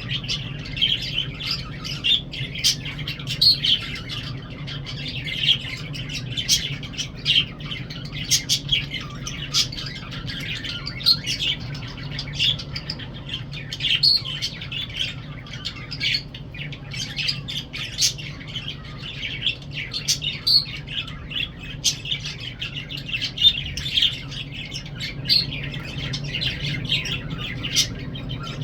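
Lovebirds chattering: a dense, continuous stream of high chirps and sharp squeaks, over a low steady hum.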